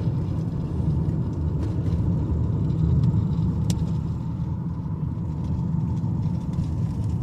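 Car driving on a wet road, heard from inside the cabin: a steady low rumble of engine and tyres, with a single short click a little past the midpoint.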